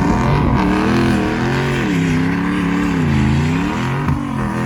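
Vehicle engine revving up and down repeatedly under changing throttle while driving on snow, its pitch rising and falling several times and dipping lowest about three seconds in.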